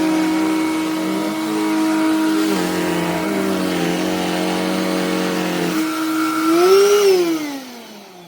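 BLACK+DECKER Dustbuster AdvancedClean+ pet cordless handheld vacuum running, its motor pitch shifting a few times as it works over pet hair. Near the end the pitch briefly rises, then the vacuum is switched off and winds down to a stop.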